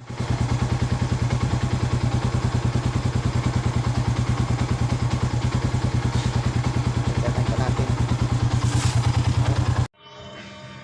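Yamaha Sniper 150's single-cylinder four-stroke engine idling steadily with an even putt of about ten firing pulses a second, as its idle speed is set to cure hard starting at low idle. It cuts off abruptly near the end.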